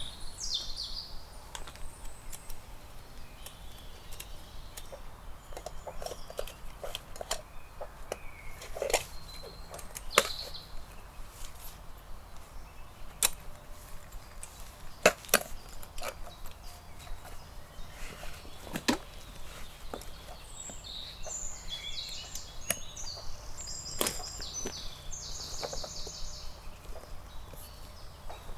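Scattered sharp knocks and clicks, like wood or gear being handled, a few of them loud. A small bird calls in quick, high chirping runs for several seconds past the middle.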